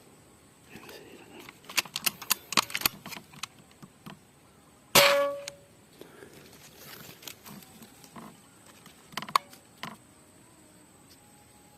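A hunting air rifle: a run of sharp mechanical clicks, then a single loud shot about five seconds in with a brief metallic ring, and a few more clicks near the end.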